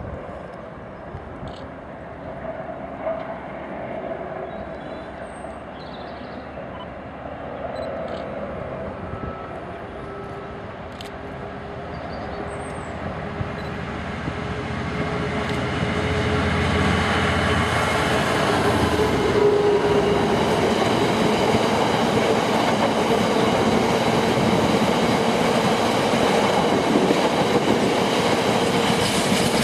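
A train approaching on the line, its rail and wheel noise quiet at first, growing steadily louder from about halfway, and staying loud as it runs past.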